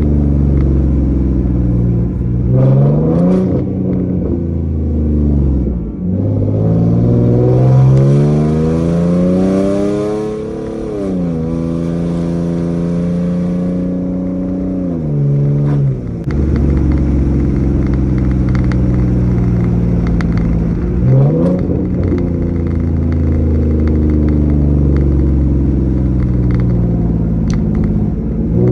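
V6 Ford Mustang with a catted X-pipe and no mufflers or resonators, driving and accelerating: the exhaust note climbs in pitch and drops back sharply several times as it shifts, between stretches of steady cruising drone. There is one longer pull in the first half, a short rev about 21 seconds in, and another climb at the very end.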